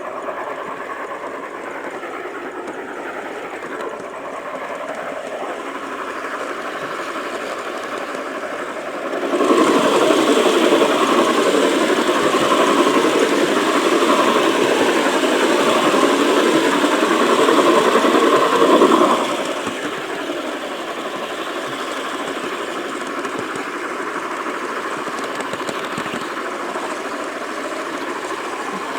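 G-scale garden model train running along its track, its wheels and motor heard from a camera riding on the rear car. It gets markedly louder for about ten seconds from roughly a third of the way in, with a wavering whine, then drops back to the steady running noise.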